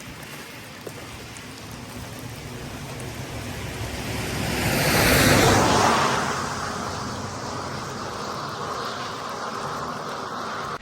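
Steady hiss of heavy rain. A vehicle passes on the wet road, its tyre hiss swelling to its loudest about five seconds in and then fading away.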